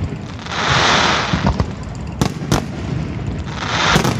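Fireworks display: sharp bangs from exploding shells, two close together past the middle and one near the end, over long swells of crackling hiss from bursting effects.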